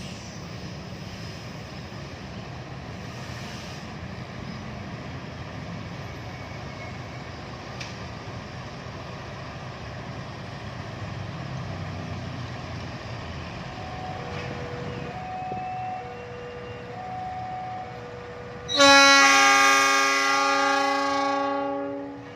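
Train locomotive's horn giving one long blast of about three seconds near the end, the loudest sound here. A steady low rumble runs underneath. From about two-thirds in, a two-note electronic signal alternates roughly once a second.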